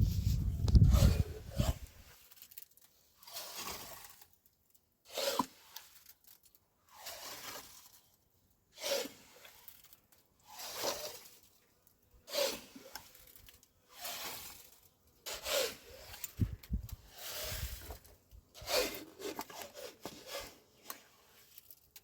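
About a dozen scraping strokes at an uneven pace, roughly one every one and a half to two seconds, after a low rumble in the first second or so.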